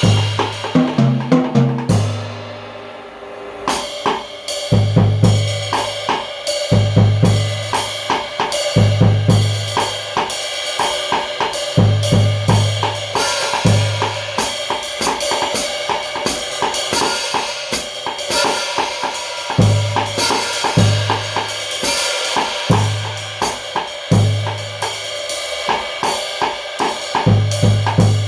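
Drum kit played with Kamin handmade cymbals: cymbals ringing steadily over snare and bass drum strokes. Near the start a quick run of drum strokes falls in pitch, like a tom fill.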